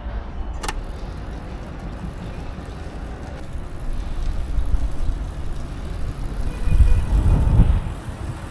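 Street noise heard while riding a bicycle in city traffic: a low, fluctuating rumble of wind and passing motor traffic, swelling to its loudest about seven seconds in. A single sharp click comes about half a second in.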